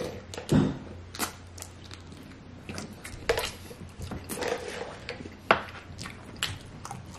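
Close-up eating sounds from spicy chicken wings: wet chewing, lip smacks and a string of sharp mouth clicks, with a short hum about half a second in.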